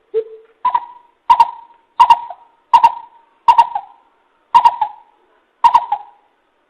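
Coucal calling a series of deep hooting notes: one lower hoot, then seven higher hoots evenly spaced under a second apart.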